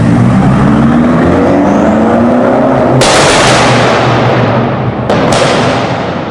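BMW F90 M5's 4.4-litre twin-turbo V8, heard through a DunnFab catback exhaust, accelerating hard with its note climbing for about three seconds. Then a sudden loud rush of noise that fades away, and a second one a couple of seconds later.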